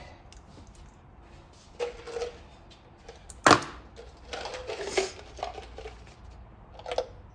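Metal parts and hand tools clinking and clattering while the lower intake manifold is bolted onto the engine, with one sharp metallic clank about three and a half seconds in and a short run of rattling clinks just after.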